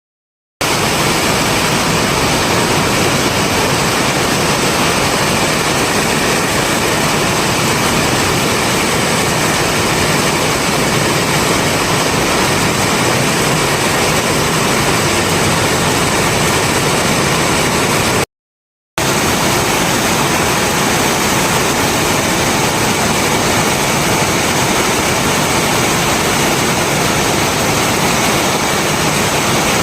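Heavy rain falling as a steady, even hiss, broken by a silent gap of under a second about eighteen seconds in.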